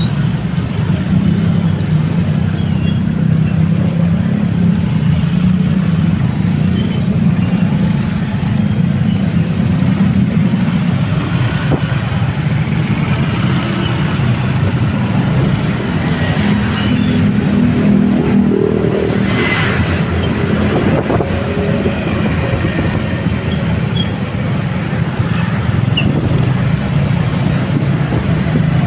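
Motorcycle engine running in road traffic, its low note rising and falling as the speed changes, with a brief higher-pitched sound about two-thirds of the way through.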